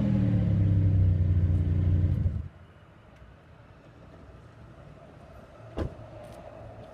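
Pontiac Grand Prix GT's 3.8-litre V6 exhaust running steadily as it settles from a rev, then stopping abruptly about two and a half seconds in. A single sharp knock sounds near the end.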